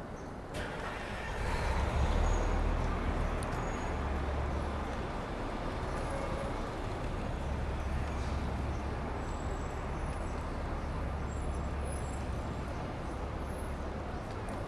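Steady outdoor city street noise with a low rumble of passing traffic.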